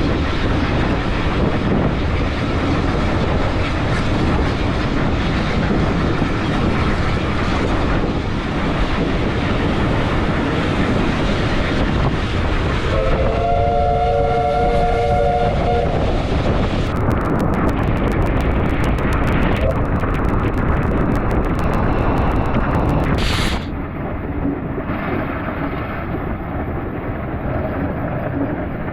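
Steam train running along the line, with a steady rumble and clatter of wheels on the track. About halfway through, the locomotive's steam whistle sounds for about three seconds. The sound becomes quieter about three-quarters of the way through.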